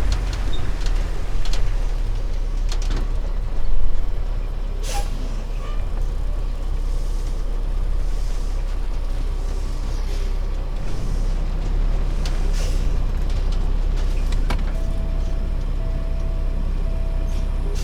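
Kenworth T660 semi truck running down the road: a steady low drone of engine and road noise, with scattered clicks and knocks. Near the end a short tone starts repeating at even spacing.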